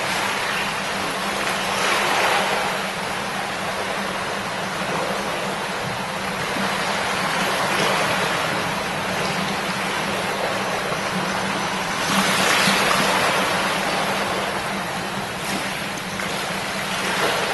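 A shallow river babbling over stones: a steady rush of flowing water that swells a little now and then, most strongly about two-thirds of the way through.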